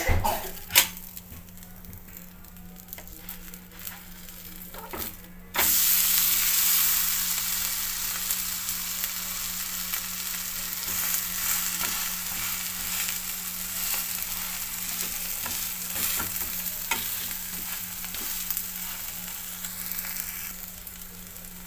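Uttapam frying on a nonstick tawa. A couple of sharp spatula knocks come at the start, over a quiet sizzle. About five and a half seconds in, the uttapam is flipped and the sizzle jumps suddenly loud as the vegetable-topped side meets the hot pan, then eases slowly into a steady sizzle.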